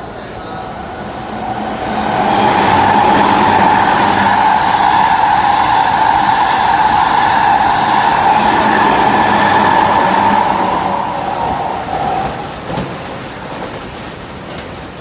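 Electric train passing through a station at speed without stopping. Its noise builds over the first two seconds, stays loud with a steady high tone running through the wheel rush, then fades away from about eleven seconds in.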